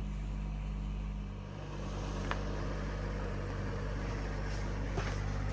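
Engine of a snow-plowing vehicle running with a steady low drone, dipping slightly about a second and a half in, with a few faint clicks.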